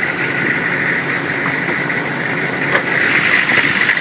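Turbocharged engine of a 1998 Holden Suburban 2500 idling steadily with the bonnet open, with a steady whine in the sound and a brief click about three seconds in.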